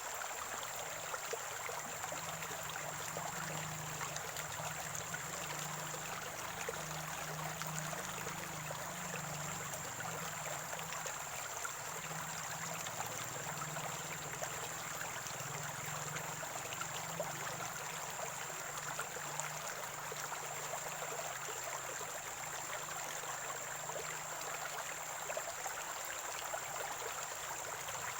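Water of a small stream or spring trickling and gurgling steadily over stones, with a thin steady high tone running underneath.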